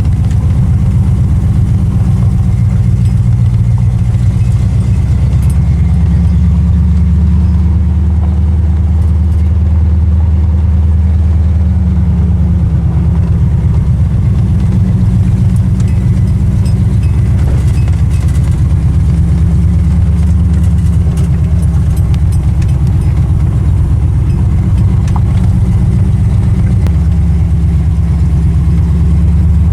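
1979 AMC AMX's engine and exhaust running at low speed while the car cruises slowly, heard from inside the car; the engine note shifts a little with the throttle.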